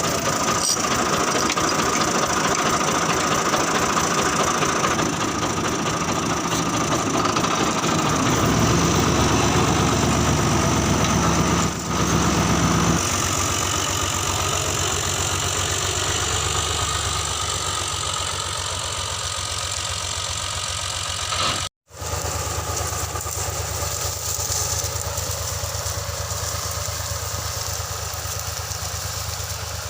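Fiat 480 tractor's diesel engine running steadily, its note shifting about a third of the way through and dropping out for an instant about two-thirds through.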